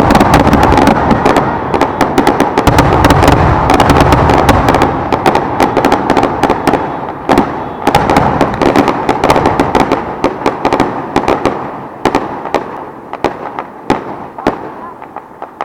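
Fireworks finale: a dense, continuous barrage of shell bursts and many sharp pops, thinning out and getting quieter over the last several seconds.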